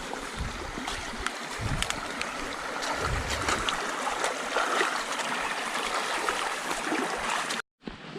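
Rain falling on forest vegetation: a steady hiss with many small drop clicks, and a few low thumps in the first seconds. It cuts off suddenly near the end.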